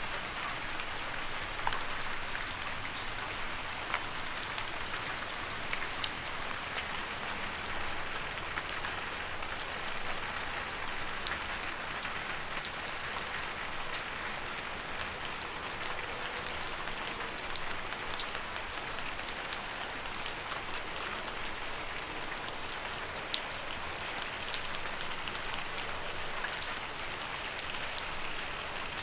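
Steady rain falling, a continuous hiss with many distinct drops ticking sharply on a surface.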